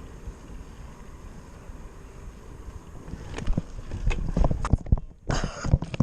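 Mountain bike rolling with wind noise, then, from about three seconds in, a run of irregular knocks and rattles from the bike as the rider tries a wheelie, with a short hiss just before the end.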